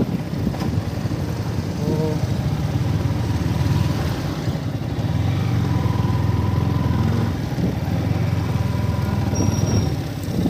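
Yamaha MT-15 motorcycle's 155 cc single-cylinder engine running steadily at low speed in low gear.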